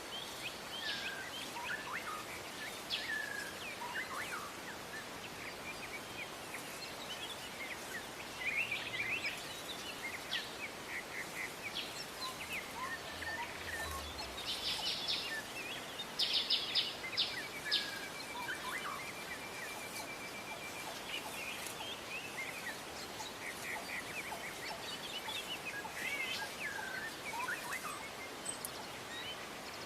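Several wild songbirds chirping and calling in short phrases, busiest and loudest a little past halfway, where one bird gives a steady even trill, over a constant outdoor background hiss.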